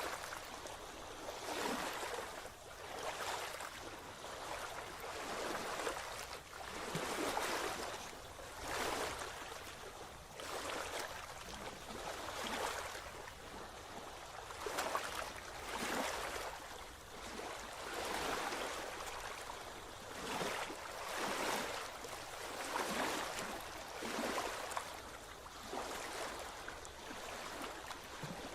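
Water washing in repeated small surges, swelling and fading every second or two, like small waves lapping at a shore.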